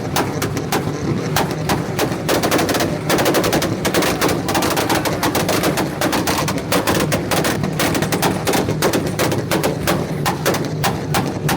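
Several cars two-stepping at once on launch control, their engines held at the rev limiter with a rapid, continuous string of exhaust pops and bangs.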